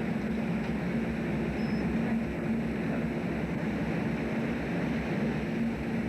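Steady low drone of a fishing boat's engine and machinery heard on board, running evenly with no change.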